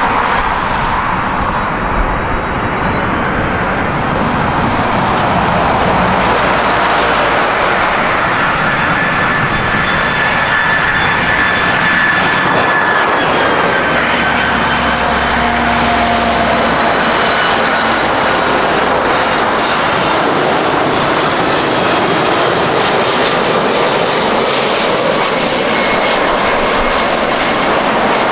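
Jet airliner engines passing close, a loud, steady noise with thin whining tones that slowly fall in pitch partway through.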